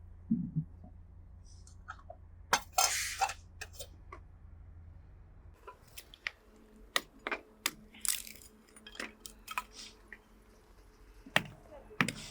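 Scattered clinks and knocks of pots, dishes and utensils being handled, with a couple of short scraping sounds.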